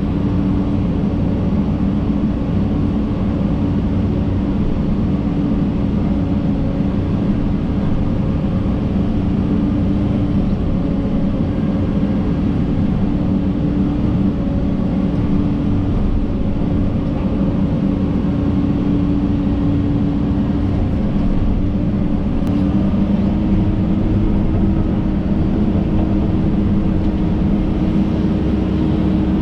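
John Deere 130G excavator's diesel engine running steadily under work, with a slight rise in pitch about three-quarters of the way through.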